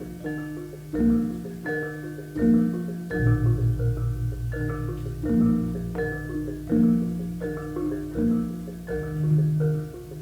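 Javanese gamelan ensemble playing: bronze metallophones strike a steady stream of ringing pitched notes. A deep, sustained low note comes in about three seconds in and hangs under them.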